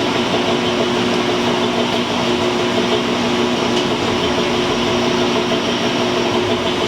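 Metal shaper running steadily, taking a roughing cut across a mild steel part with two steady hum tones under the machine noise.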